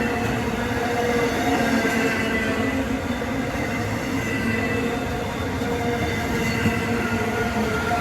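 Intermodal freight train cars rolling past at speed: a steady wheel-on-rail rumble with continuous ringing squeal tones from the wheels.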